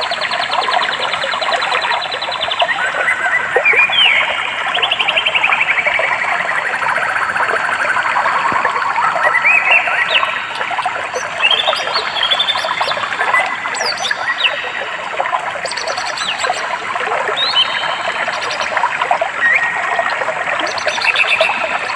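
A stream running steadily, with several birds singing over it. Their songs are rapid trills, one of them falling slowly in pitch, and short rising whistled notes throughout.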